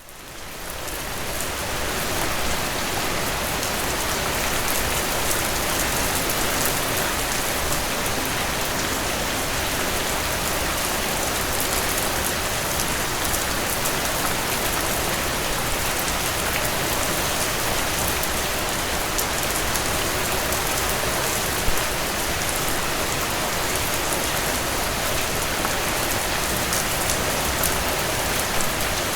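Heavy rain falling on a tin roof: a dense, steady hiss with many fine drop ticks, fading in over the first two seconds.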